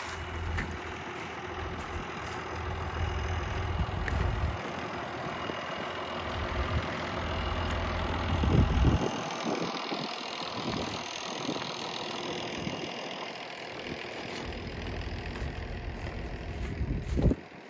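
Farm tractor engine running steadily, with wind gusting on the microphone in irregular low rumbles.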